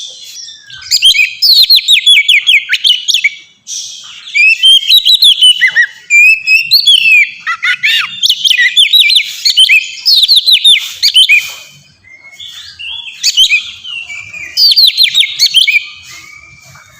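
Oriental magpie-robin (kacer) singing loud, free-flowing song: phrases of fast, rapidly repeated whistled notes and trills, each a second or two long, broken by short pauses.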